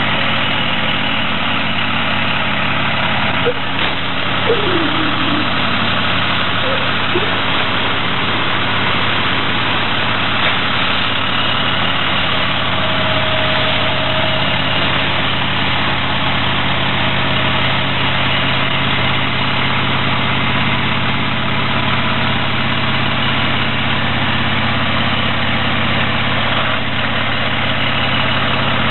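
International 7300 brush truck's diesel engine idling steadily, with a few short clicks about four seconds in.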